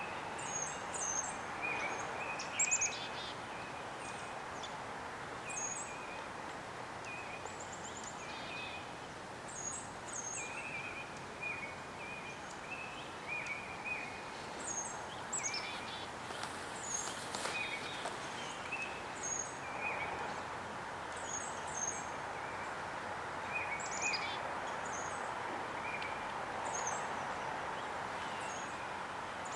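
Small songbirds calling over and over: short, high, hooked chirps mixed with lower single notes, scattered all through, over a steady rushing background noise.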